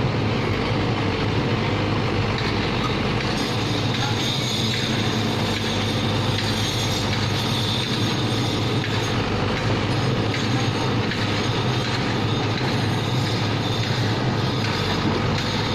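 Sany mini excavator's diesel engine and hydraulics running steadily under load, with a high whine joining in about three seconds in.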